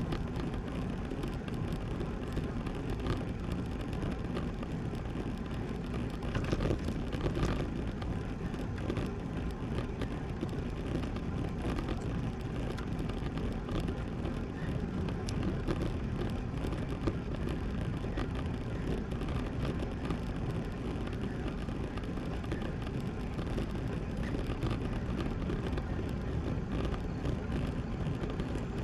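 Steady wind rush over the microphone and tyre noise from a road bike riding along, a little louder for a moment around six to eight seconds in.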